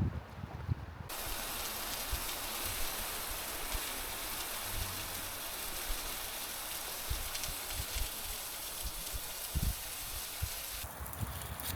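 A steady hiss that starts suddenly about a second in and cuts off suddenly shortly before the end, with faint low knocks beneath it.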